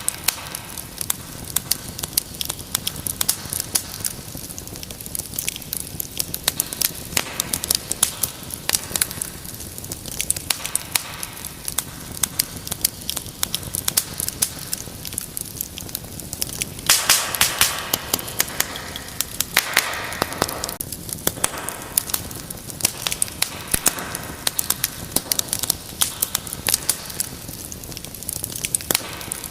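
Wood fire crackling, with dense irregular pops and snaps throughout. A louder, thicker burst of crackling comes about seventeen seconds in.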